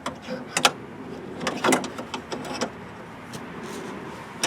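Scattered sharp clicks and knocks of small parts being handled and fitted inside a car door, about half a dozen in all.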